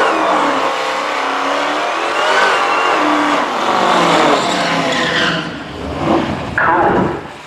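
A drag car doing a burnout: its engine revs up and down while the rear tires spin and squeal on the pavement to heat them before the launch. Two short, sharp revs near the end, then the engine falls away.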